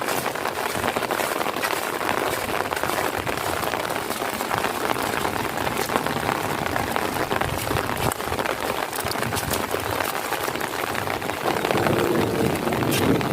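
Heavy rain falling steadily onto puddles and wet ground, with many individual drops clicking sharply. Near the end a low rumbling sound joins in and grows a little louder.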